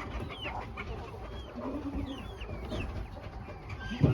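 Young poultry in a pen: many short, high, falling peeps mixed with a few drawn-out low clucks. A sharp knock comes near the end.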